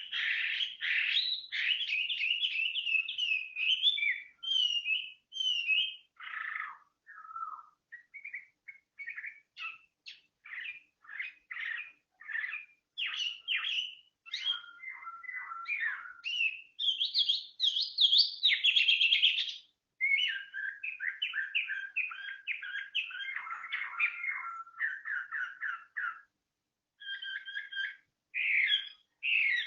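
A songbird singing a long, varied song of rapid chirps, trills and whistles, broken only by brief pauses.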